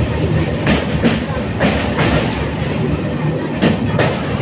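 Train running with a steady rumble, its wheels clacking over rail joints in sharp, uneven knocks.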